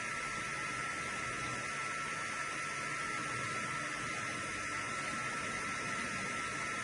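3D printer's fans running steadily: an even hiss with one constant high whine that does not change.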